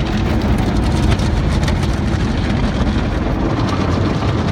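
Automatic car wash running: a steady, loud rushing noise over a low rumble.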